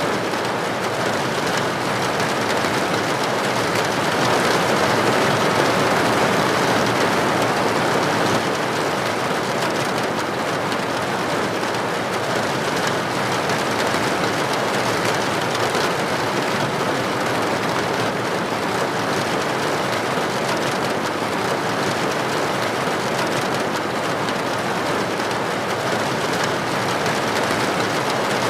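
Steady rain falling, an even, unbroken hiss that swells a little about four seconds in and settles back after about eight seconds.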